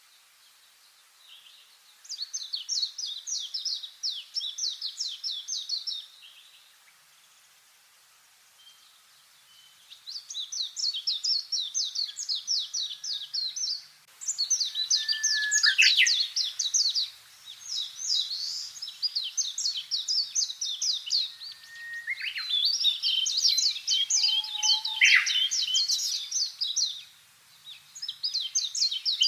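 Songbird singing fast trills of repeated high notes. Each phrase lasts about three to four seconds, with short pauses between phrases and a longer pause near the start.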